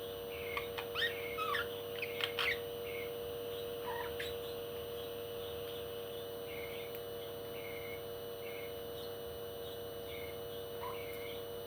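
Parrot chirping: short chirps repeated about once a second, with a quick flurry of sharper calls in the first few seconds, over a steady low hum.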